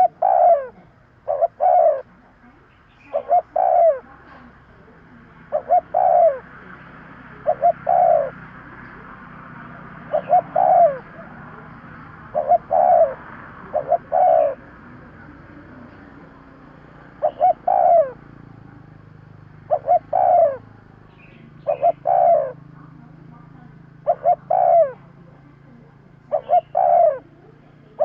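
Spotted dove cooing over and over: short, loud coos, mostly in pairs, repeating every couple of seconds.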